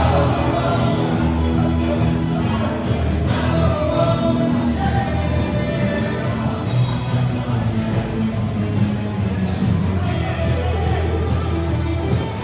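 A live band playing a song, with singing over a steady drum beat.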